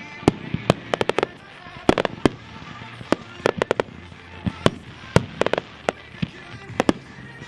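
Aerial fireworks exploding: an irregular string of sharp bangs, several a second, some coming in tight clusters of three or four.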